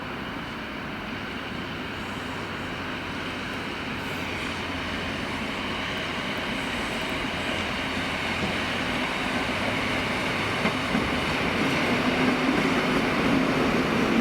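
Train approaching on the rails, its running noise growing steadily louder.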